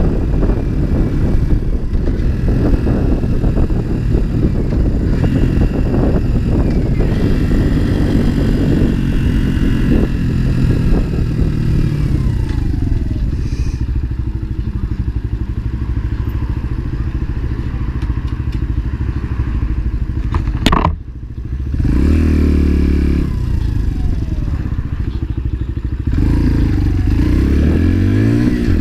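Motorcycle engine running under way, with wind and road noise. About 21 s in there is a sharp click and a brief dip in level, and near the end the engine note rises as it accelerates.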